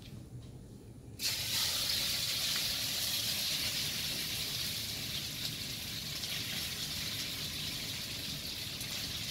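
Seasoned chicken breast strips sizzling as they are laid into a hot skillet to sear. The steady sizzle starts suddenly about a second in.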